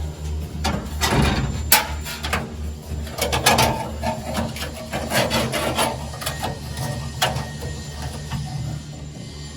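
Hand work on truck fuel-tank fittings: irregular knocks, clinks and scraping of metal parts and tools over a steady low hum.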